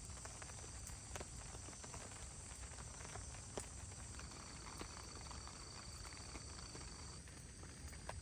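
Steady hiss of heavy rain, with scattered sharp ticks and pops.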